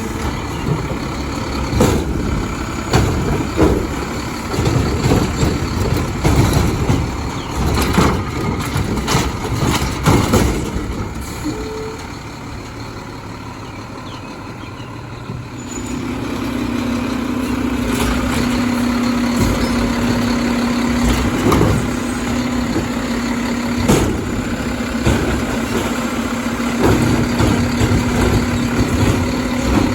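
Garbage truck working: clanks and knocks over a low rumble for about ten seconds, a short quieter spell, then a steady hum that holds one pitch from about halfway through, with occasional knocks.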